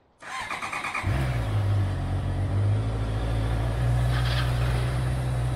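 A car engine cranked by its starter for under a second, then catching about a second in and settling into a steady idle. A short burst of rapid ticking comes about four seconds in.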